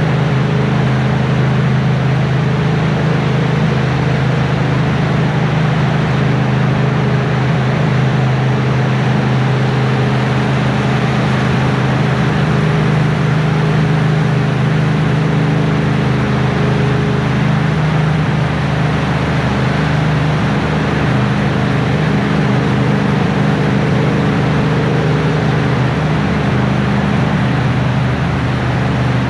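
Yamaha Tracer 700's 689 cc parallel-twin engine running at a steady cruise, with a slight change in its note about halfway through. A steady hiss of wind and rain noise runs underneath.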